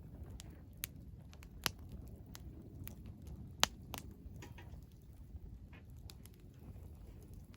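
Wood fire crackling: irregular sharp pops and snaps, the loudest a little past halfway, over a low steady rumble.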